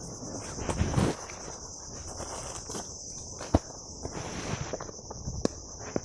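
A steady high-pitched insect chorus, such as crickets, over rustling and footsteps. Two sharp clicks stand out, about three and a half and five and a half seconds in.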